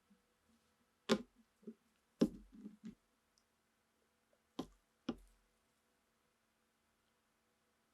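Sharp knocks and clicks of hard objects being handled and set down: one about a second in, another at about two seconds followed by a few smaller taps, then two close together about halfway.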